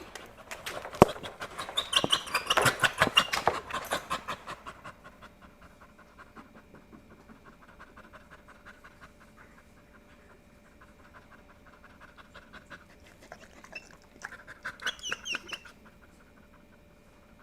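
Dog panting in quick, even breaths, about five a second, loudest over the first few seconds, then softer, with a louder spell again near the end.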